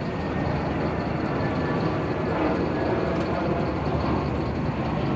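Steady background rumble that stays even throughout, with no distinct knocks or tool sounds standing out.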